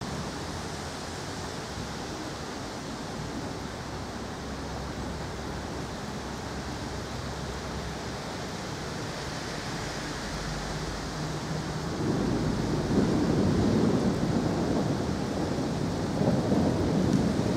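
Thunderstorm: steady rain hiss, then about twelve seconds in a long rolling rumble of thunder begins and keeps going.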